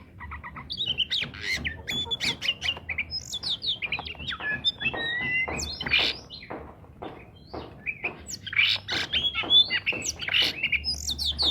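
Oriental magpie-robin (kacer) in full, busy song: a fast, varied run of clear whistled notes and rough buzzy notes. It eases briefly about two thirds of the way in, then picks up again.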